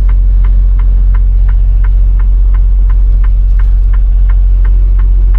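Semi truck's diesel engine running with a steady low hum inside the cab, while the turn signal ticks evenly about three times a second.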